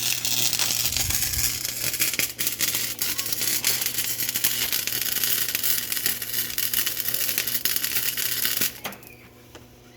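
Flux-core MIG welding arc crackling and spitting steadily on dirty, partly painted steel pipe, then cutting off abruptly near the end as the trigger is released.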